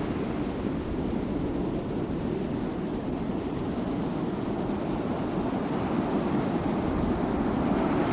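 Sea waves washing in: a steady surf hiss that eases after a wave and swells again toward the next one near the end.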